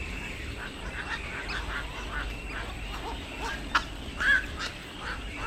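Many birds calling together: a busy chatter of short, overlapping calls, with a sharp click a little before a louder call about four seconds in.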